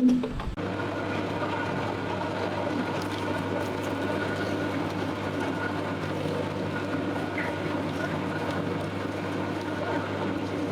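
A motor running with a steady, even hum that starts about half a second in, just after a short thump.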